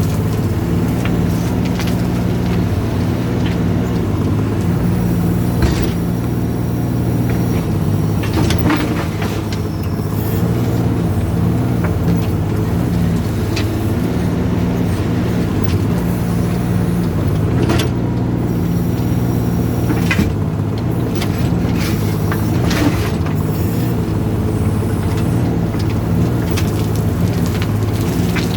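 Volvo mini excavator's diesel engine running steadily while digging, with short sharp knocks every few seconds.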